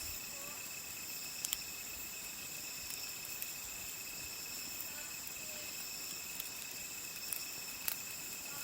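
A steady chorus of insects chirping in high, unbroken trills, with a few sharp crackles from the burning wood of the campfire, the loudest about a second and a half in and near the end.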